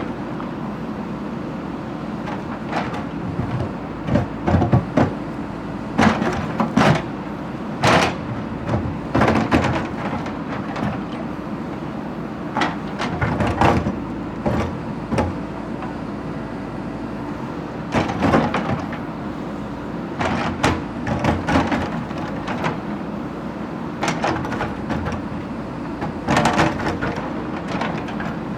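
A heavy machine's engine running steadily, with irregular metal clanks and bangs, some in quick bunches of two or three.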